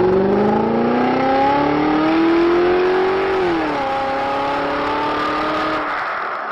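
Car engine accelerating, its note climbing steadily, then dropping sharply about three and a half seconds in and running on at a lower, steady pitch.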